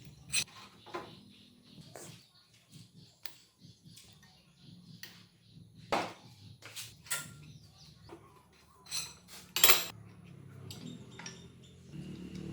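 Irregular sharp metallic clinks and knocks of tools and metal parts being handled, with a loud clink about three quarters of the way in.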